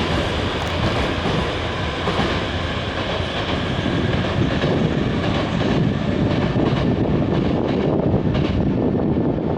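Nankai electric commuter train running along the station platform, a steady loud rumble of motors and wheels with wheels clacking over rail joints.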